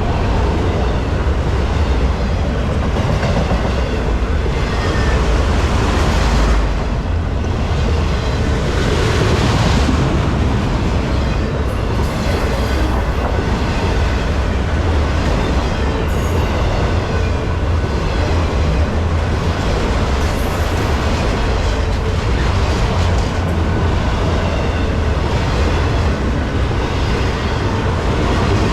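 Freight train cars rolling past at close range: a steady low rumble with wheels clacking over the rail joints.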